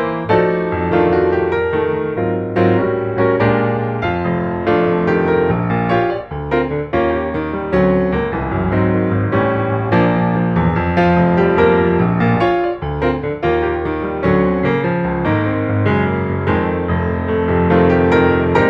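Background piano music, with a bass line and a steady stream of struck notes.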